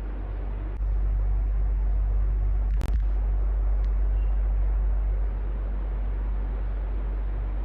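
Electric fan running steadily: a low hum under an even rush of air. It gets louder about a second in and eases back a little after five seconds, with a single sharp click near three seconds.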